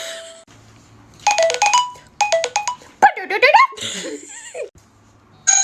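Two short runs of electronic notes like a phone ringtone, followed by a voice sliding up and down in pitch.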